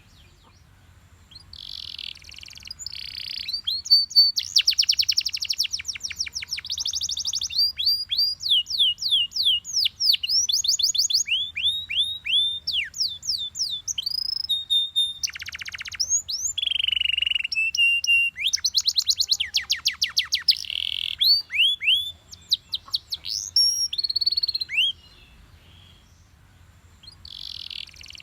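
Yellow Belgian canary singing one long song of fast trills and runs of repeated downward-sweeping whistles. It starts about a second in, breaks off a few seconds before the end, and starts again near the end.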